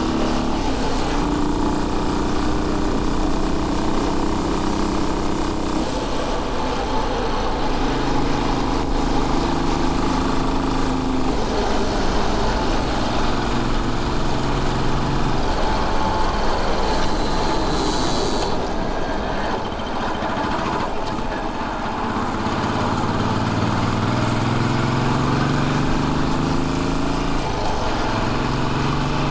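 Royal Enfield Bullet 500's air-cooled single-cylinder four-stroke engine running under way. Its note holds steady at a few speeds, eases off briefly about two-thirds through, then rises again as the bike accelerates.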